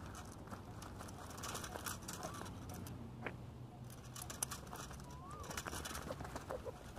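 Faint crackling and rustling, with a short rising-and-falling bird note near the middle and again near the end, about three seconds apart.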